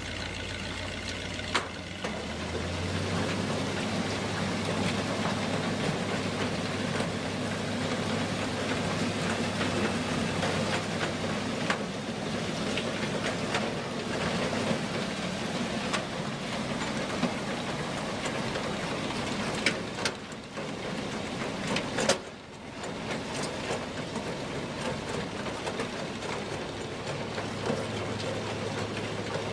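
A vehicle engine running steadily under a broad noisy hiss, broken by a few sharp knocks, the loudest about twenty and twenty-two seconds in.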